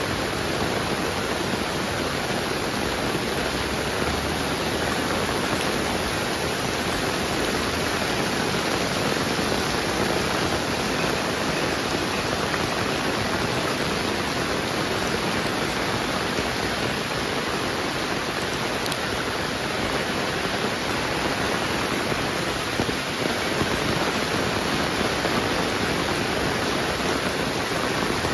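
Heavy rain pouring down steadily in an even, unbroken rush of sound.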